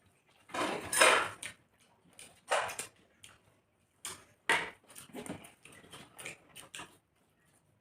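Eating sounds: chewing and mouth smacking over rice and chicken kosha, in short irregular bursts, the loudest about a second in.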